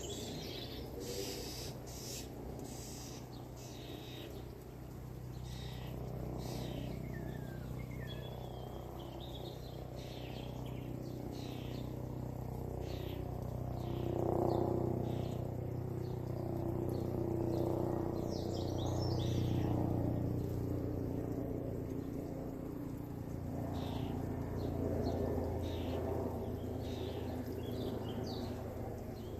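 Wild birds chirping and calling in short, scattered notes over a steady low rumble that grows louder about halfway through.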